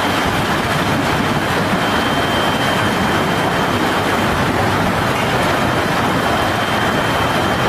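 A violent storm: a steady, loud rush of wind and heavy rain.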